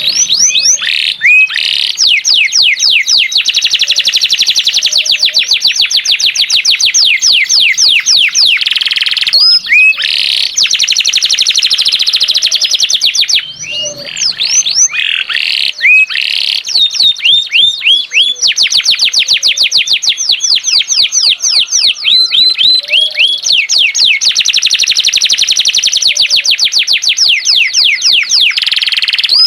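Domestic canary singing hard: long, fast trills of rapidly repeated falling notes, with a few brief breaks between phrases.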